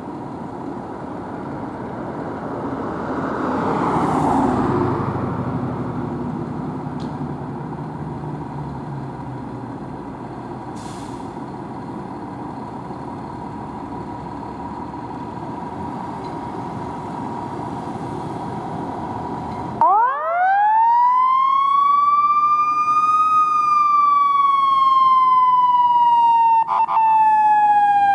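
Traffic noise with a vehicle swelling past early on, then, about twenty seconds in, a fire engine's siren starts loudly: it rises quickly to a peak and then falls slowly in a long steady slide.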